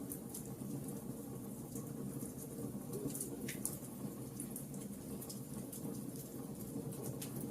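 Wood fire crackling: a steady low rush of burning with scattered sharp pops and crackles, one stronger snap about three and a half seconds in.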